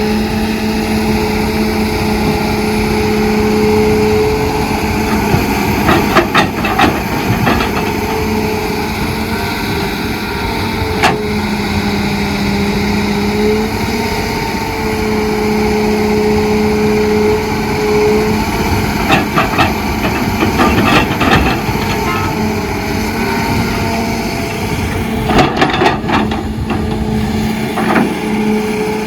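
Heavy diesel construction machinery running steadily, with a whine that shifts in pitch now and then. Short bursts of clattering and knocks come several times, about six, eleven, twenty and twenty-six seconds in.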